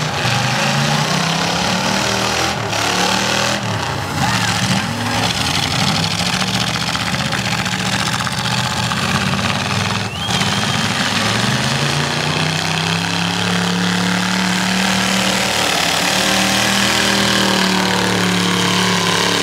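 Demolition derby cars' engines running and revving in the arena, loud and continuous, with pitch rising and falling. About two-thirds of the way through, one engine revs up and holds a high, steady pitch.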